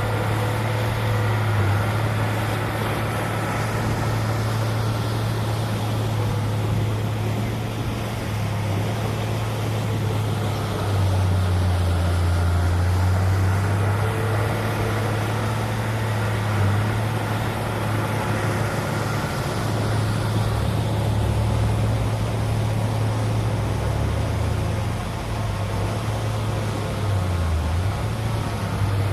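Heavy diesel earthmoving machine engine running steadily under working load. Its low drone shifts in pitch and strength as the load changes, a little louder about eleven seconds in.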